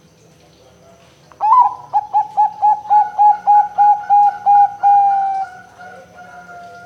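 Zebra dove (perkutut) singing: a quick run of about a dozen short cooing notes starting about a second and a half in, ending on a longer drawn-out note that fades away.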